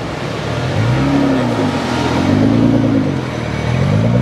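A car engine revving up and dropping back repeatedly, with the pitch climbing and falling about three times.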